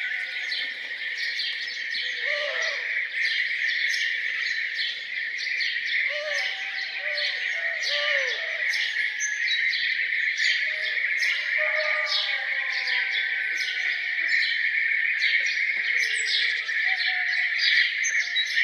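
Dense morning chorus of many birds chirping and singing without a break, over a steady high-pitched hum, with short lower arched calls from other birds now and then.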